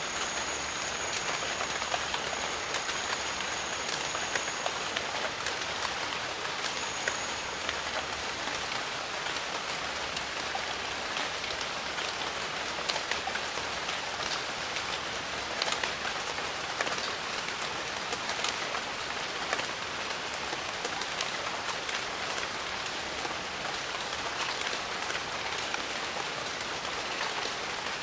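Steady rain falling in a jungle: a dense, even hiss with many individual drop hits heard as sharp ticks. A thin, high steady tone sounds over the rain for the first few seconds and again briefly a few seconds later.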